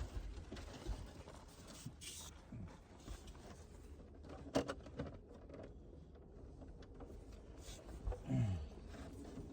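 Handling noises of PEX pipe being worked in a crawl space: scattered knocks and rustles, a sharp click about halfway through, and a short low groan falling in pitch near the end.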